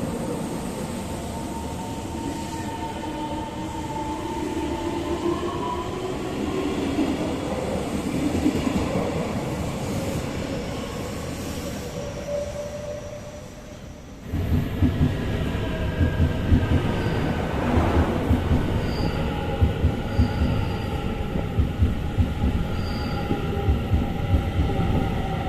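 Train running on the rails with thin squealing tones from the wheels. About fourteen seconds in, the sound jumps abruptly to a louder low rumble with repeated sharp knocks.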